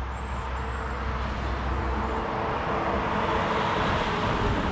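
Road traffic noise from a nearby highway, a steady rush that grows gradually louder as a vehicle approaches.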